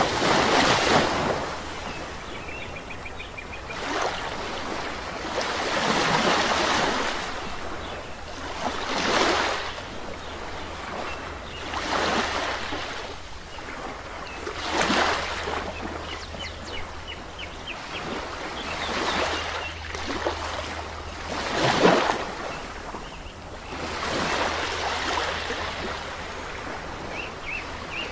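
Small sea waves breaking and washing on a shore, one surge every two to three seconds, with faint bird chirps now and then.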